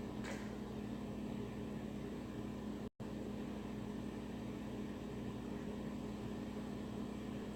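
Steady low mechanical hum with an even hiss over it, cut by a split-second dropout about three seconds in.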